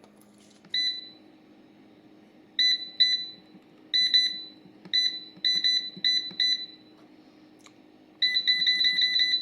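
Air fryer control panel beeping as its buttons are pressed to set it: short electronic beeps, one at a time with pauses, then a quick run of about six near the end.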